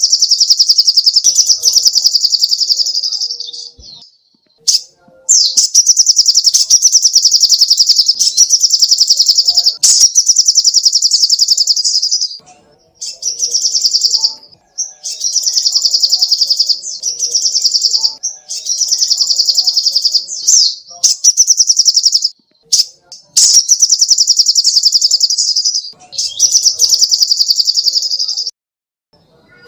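Sogoh ontong bird singing: very high, rapid trills of one to three seconds each, repeated over and over with short breaks between them.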